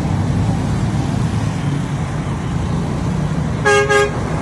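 Steady low rumble of road traffic or a running vehicle engine, with a vehicle horn giving two short toots in quick succession near the end.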